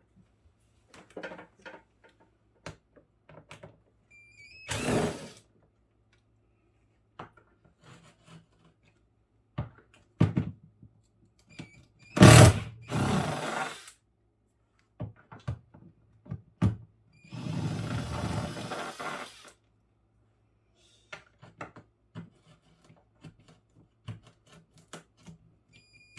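Plastic interior parts of a refrigerator being handled and pried loose during disassembly: scattered clicks and knocks, a loud knock about twelve seconds in, and a few longer scraping stretches of a second or two.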